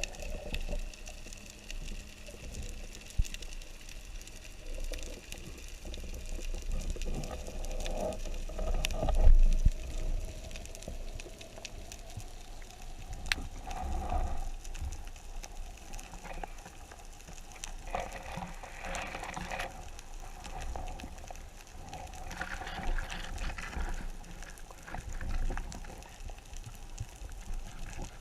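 Underwater sound through a diving camera's housing: water moving and rushing, with a few sharp clicks and several louder swells.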